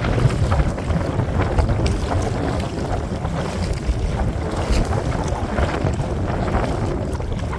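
Strong wind buffeting the microphone in a steady low rumble, with water splashing irregularly against a kayak on choppy water.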